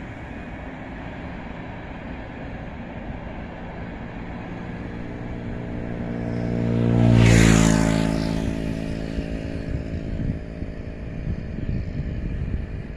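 Electric locomotive E-1411 passing by. Its tone builds to a loud peak about seven seconds in and drops in pitch as it goes past, followed by an uneven rumble as the train rolls on.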